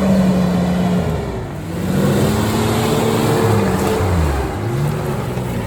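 Off-road vehicle's engine revving hard under load, its pitch climbing, holding and dropping back about three times as it is driven through the obstacle.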